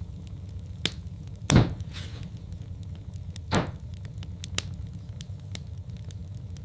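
Wood fire in a fireplace crackling: a steady low rumble of burning logs, many small sharp crackles, and two louder pops about a second and a half and three and a half seconds in, the first the loudest.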